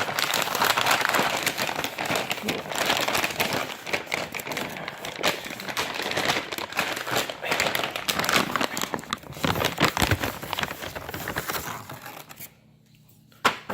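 Food packaging crinkling and tearing as a frozen veggie burger is unwrapped. The rustling is dense and continuous, with a short quiet gap near the end.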